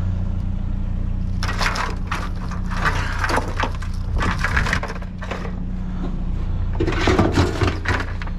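Irregular crunching and clattering of objects being handled and set down, in two spells, over the steady low hum of an idling vehicle engine.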